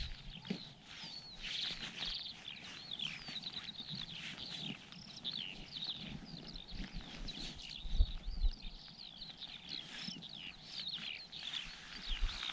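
A bird singing on and on: a rapid, unbroken stream of high chirps and short slides. Now and then a gust of wind rumbles on the microphone, most strongly about eight seconds in.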